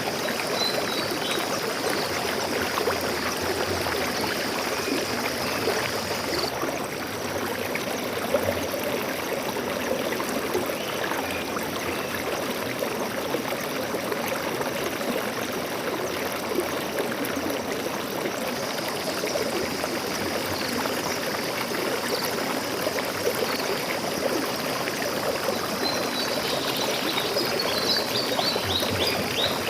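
Stream water flowing and trickling in a steady rush. A few brief, high bird chirps come about a second in and again near the end.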